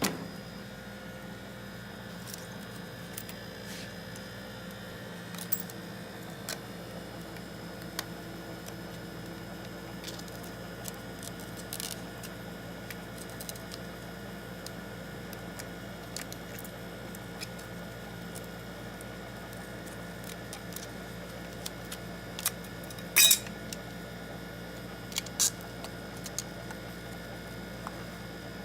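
Small tools and parts clicking and tapping against a smartphone during a glass repair, scattered light clicks with a few sharper ones about 23 and 25 seconds in. A steady electrical hum runs underneath.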